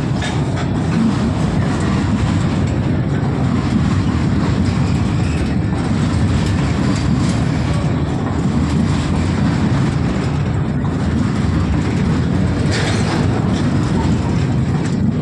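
Covered goods wagons of an Indian freight train rolling past close by: a steady, loud rumble of steel wheels on the rails, with a few clacks as wheels cross rail joints.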